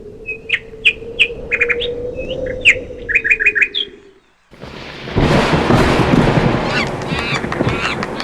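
Birds chirping in short, repeated calls over a steady low drone. About four seconds in, the sound drops out briefly, and then a loud, dense rush of noise sets in, with bird calls still faintly heard through it.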